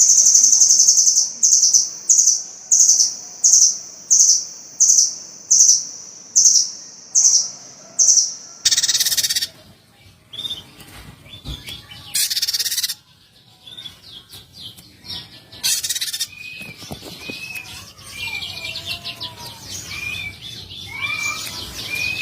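Small songbird calling: a high, sharp note repeated about one and a half times a second. About nine seconds in, the sound changes to short harsh bursts and then a series of clear whistled notes.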